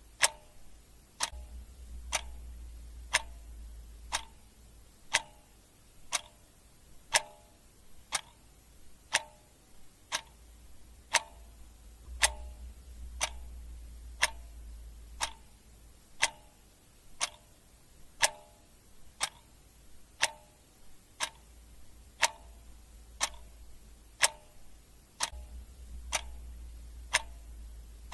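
Clock ticking steadily, about once a second.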